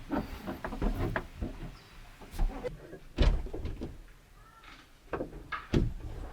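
Irregular knocks and clatter, with the loudest knock about three seconds in.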